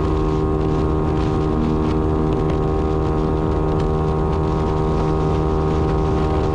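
Yamaha Y15ZR's 150 cc single-cylinder four-stroke engine running at a steady cruising speed, its pitch holding level, with wind noise on the microphone.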